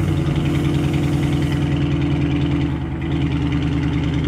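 6.4-litre Hemi V8 on a fully stock exhaust system idling just after start-up, easing down from the start-up flare into a steady idle.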